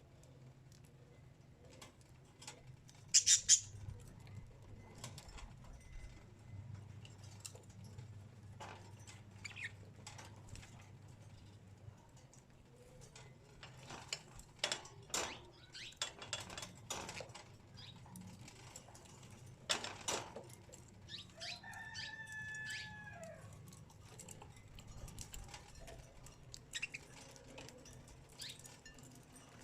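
Birds moving about: scattered rustles, taps and wing flutters, the loudest cluster about three seconds in. One pitched bird call comes about three quarters of the way through and lasts under two seconds.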